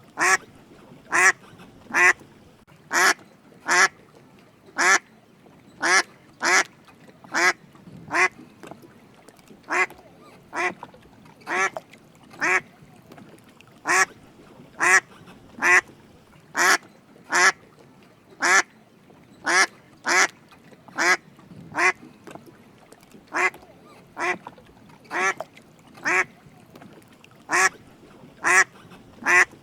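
Drake mallard quacking: short calls repeated one after another, about one every second or less, sometimes two in quick succession.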